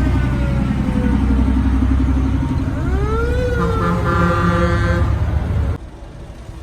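An emergency vehicle's siren winds down, then rises again about three seconds in, followed by a steady air-horn blast of a second or so, all over a heavy engine rumble. The sound drops off sharply near the end.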